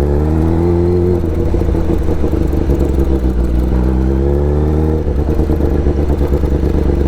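Motorcycle engine running under way: its pitch rises through the first second, holds, and climbs again around four seconds in. About five seconds in the pitch drops suddenly, and the engine runs rougher and lower after that.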